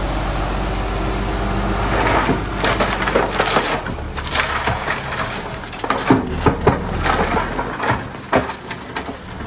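Bulldozer engine running while its blade pushes soil and trash, with repeated crunching and snapping of wood and debris from about two seconds in. The engine hum drops away near the end while the crackling goes on.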